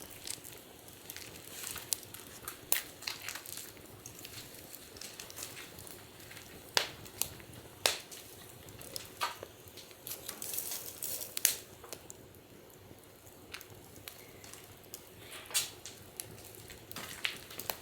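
Wood fire crackling, with irregular sharp pops over a low hiss and a denser run of crackling a little past the middle.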